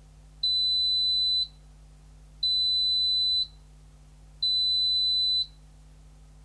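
Zanussi ZKN7120L washing machine's buzzer sounding three steady, high-pitched beeps, each about a second long and spaced about two seconds apart.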